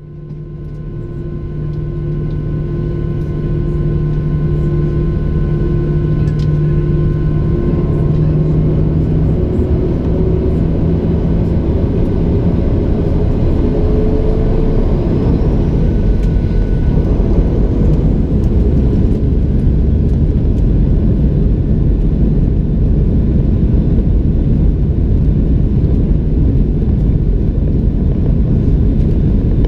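Boeing 737-700 CFM56 jet engines and rushing air heard inside the cabin: a loud, steady roar that builds over the first few seconds. A low hum and a higher tone slowly rising in pitch fade out about halfway through.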